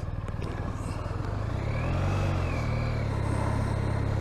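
Motorcycle engine running on the road, its note rising as it accelerates about a second and a half in, then settling to a steady pitch.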